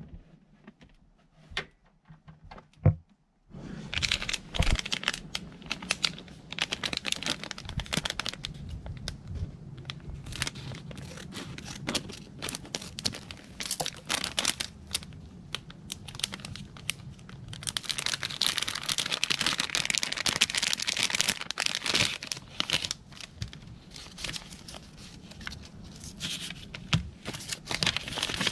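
Crinkling and tearing sounds, dense with small clicks, starting a few seconds in after a near-quiet start, over a steady low hum.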